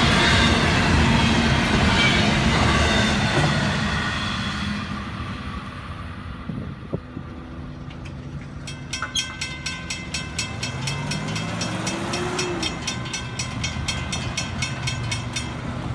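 Double-stack container cars of a freight train rolling past on the rails, their rumble fading away over the first few seconds as the end of the train goes by. From about halfway on, a grade-crossing bell rings in rapid even strokes, and a vehicle engine revs up near the end.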